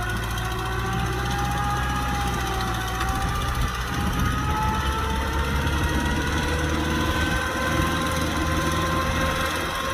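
Kubota diesel tractor engine running steadily, with a fainter whine that slowly rises in pitch.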